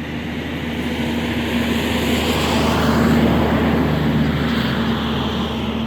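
A motor vehicle passing close by, its engine hum and road noise swelling to a peak about three seconds in and then fading.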